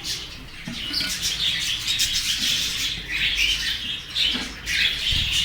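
Budgerigars chattering and chirping together in a colony, a dense run of short, high calls. A brief low bump near the end.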